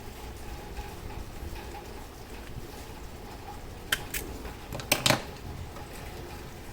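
Sharp clicks over a steady low hum: two light clicks a little past the middle, then a louder pair about a second later.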